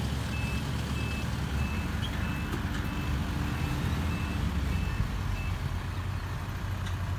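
Dump truck reversing, its reverse alarm beeping about twice a second over the steady rumble of the diesel engine. The beeping stops a couple of seconds before the end.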